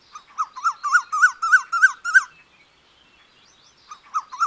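A bird calling: a quick series of short whistled notes, each rising then falling, about four a second. It stops after about two seconds and starts again near the end.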